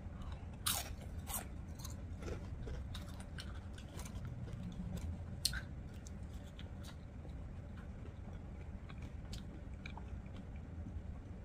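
A woman chewing and biting food close to the microphone, with scattered short sharp mouth clicks and smacks over a steady low hum.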